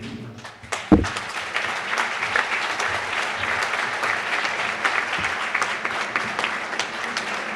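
Audience applauding in a large hall, starting with a single sharp knock about a second in and going on as steady clapping.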